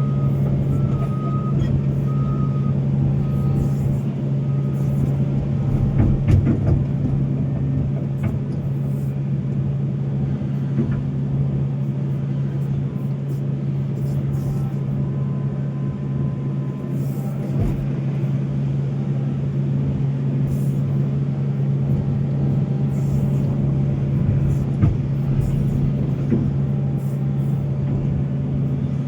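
Volvo excavator's diesel engine running steadily under working load, with a few sharp clunks of the machine at work. A warning alarm beeps repeatedly for the first few seconds, then stops.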